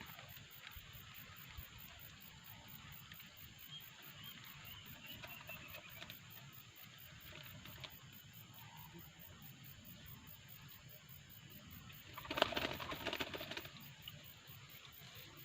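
Faint outdoor background with a small bird chirping thinly. About twelve seconds in comes a dove's wings flapping hard for about a second and a half.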